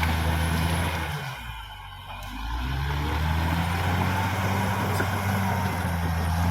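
Caterpillar D6R XL bulldozer's diesel engine running steadily. The sound briefly drops about a second in, then returns at the same steady level.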